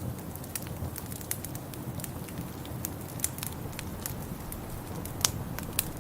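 Wood fire in a fireplace crackling, with irregular sharp pops and snaps over a steady low rumble; the loudest pops come a little after five seconds in.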